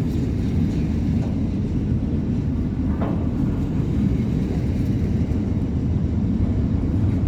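Freight train wagons rolling slowly past on the rails: a steady low rumble of wheels on track.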